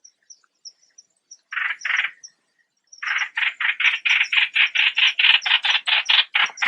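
A bird's call, the bird known in Thai as nok plot suan: two harsh notes a second and a half in, then from about three seconds a fast run of the same note, about four to five a second. Faint high chirps sound above it.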